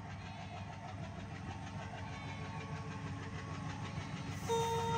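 Approaching train: a steady low rumble from the locomotive and wheels grows slowly louder as it nears. A loud steady tone cuts in about half a second before the end.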